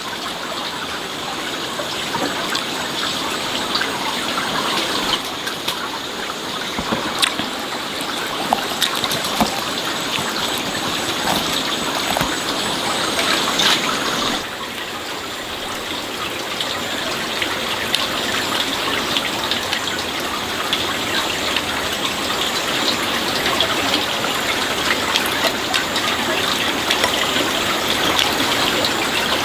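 Water running and splashing steadily, with small scattered clicks; the sound shifts slightly about halfway through.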